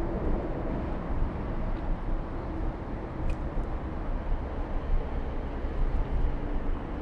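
Ride noise of a bicycle rolling along city streets: a steady low rumble from the tyres and riding, with a faint steady hum in the background and a couple of light clicks about three seconds in.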